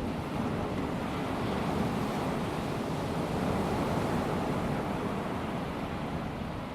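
Calm sea washing gently onto a sandy beach: a steady wash of small waves that swells a little in the middle and eases off toward the end.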